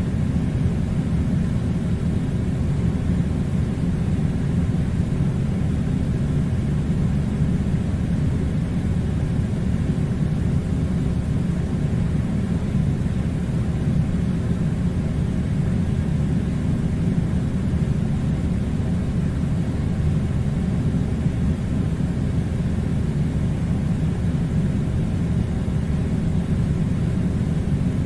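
Air conditioner running: a steady, unchanging low rumble.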